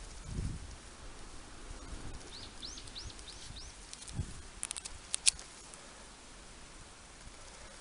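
A bird calls with a quick run of five high, arched chirps. A soft thump and a handful of sharp clicks follow about halfway through.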